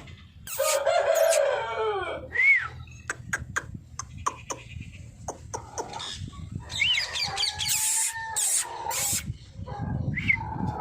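Aseel roosters crowing: one crow about half a second in and a longer crow of about two seconds near the middle. Short high squeaky calls and scattered sharp clicks come in between.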